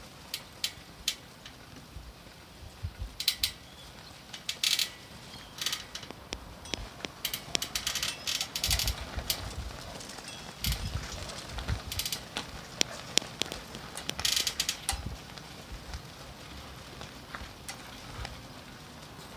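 A carp-streamer (koinobori) pole creaking and clicking irregularly as the streamers pull on it in strong wind, with low rumbles of wind at times.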